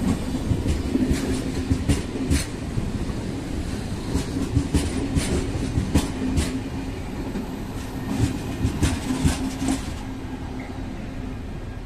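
Passenger train rolling slowly, its wheels clicking irregularly over rail joints and points under a steady hum.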